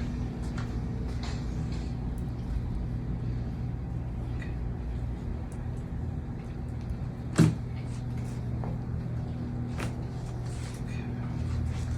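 Steady low room hum with faint clicks and rustles, a single sharp thud about seven seconds in, and a smaller knock about ten seconds in.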